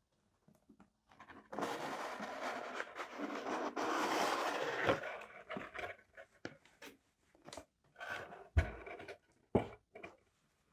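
Stationery packaging rustling and crinkling under handling for a few seconds, then scattered light taps and clicks, with a soft thump about two-thirds of the way through and another knock shortly after.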